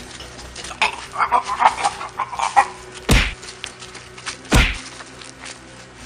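Two heavy thuds about a second and a half apart, preceded by a brief run of short, pitched vocal-like sounds.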